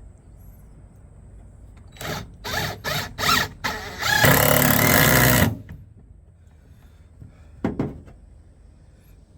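Power drill driving a screw into a pilot hole in wood: several short trigger bursts about two seconds in, then one steady run of just over a second as the screw goes in.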